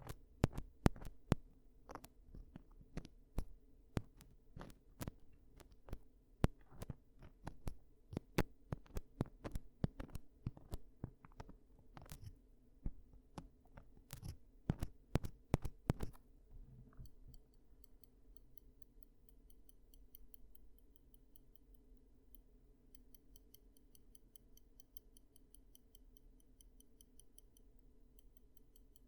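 An ear-cleaning tool scratching and clicking close against a microphone's ear in irregular strokes. About halfway through it stops, and a faint, even, high-pitched ticking of a few ticks a second takes over.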